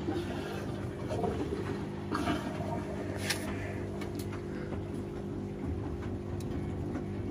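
Washing machine running mid-cycle: a steady motor hum with water moving in the drum, and a sharp click about three seconds in.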